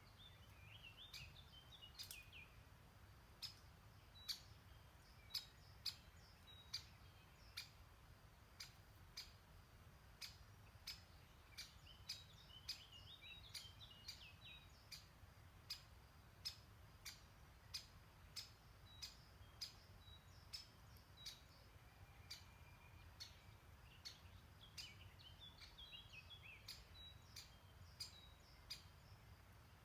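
A songbird sings a short descending phrase three times, over a faint low rumble from the stream. Throughout, a sharp click repeats at a steady rate of about one every three-quarters of a second.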